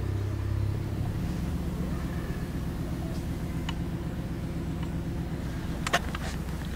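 A steady low engine-like hum runs throughout, with a few light clicks and one sharp click about six seconds in.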